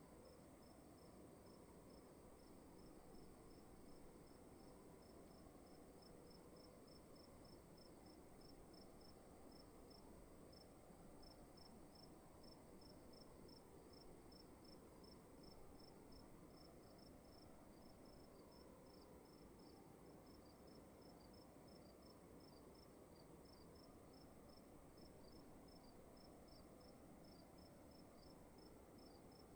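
Crickets chirping faintly in quick, evenly spaced pulses without a break, over a low, even room hum.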